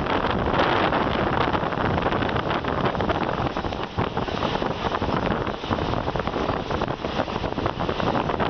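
A moving passenger train heard from an open carriage window: wind rushing over the microphone above the steady rumble of the carriage running along the track.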